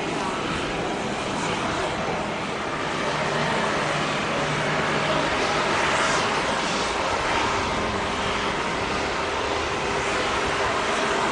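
Jet airliner's engines running steadily, a continuous loud rush with a faint hum, swelling slightly about halfway through.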